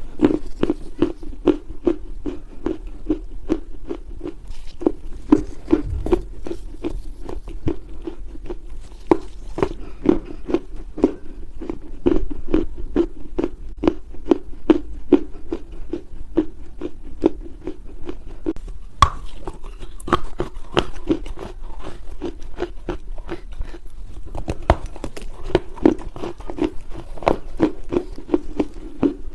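Soft, dry loess clay crunching and crumbling in rapid, continuous crackles, several small crunches a second.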